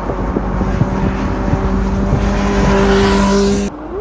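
Superbike engine held at high revs, its pitch climbing slightly as it grows louder, then cut off suddenly near the end.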